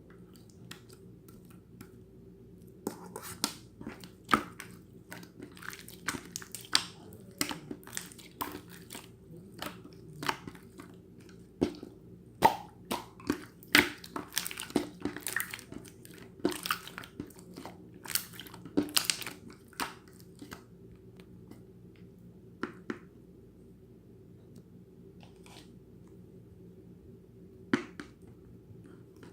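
Pearl slime being squished, giving sharp clicking pops. They come thick and fast from about three seconds in until about twenty seconds, then only a few scattered ones.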